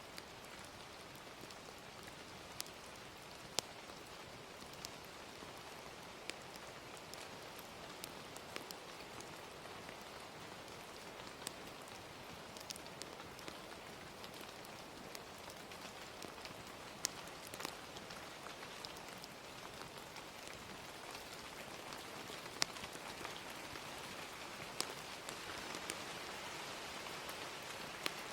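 Ambience of gentle rain falling steadily, with scattered sharp pops and crackles from a wood fire. The rain hiss grows slightly louder over the last few seconds.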